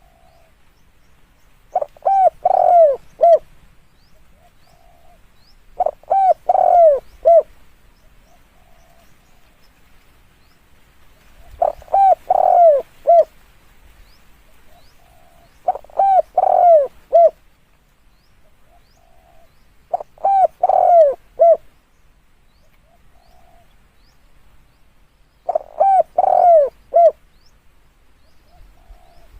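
Spotted dove cooing: six phrases of several low coos, some falling in pitch, repeated about every four to five seconds, with softer single coos between the phrases.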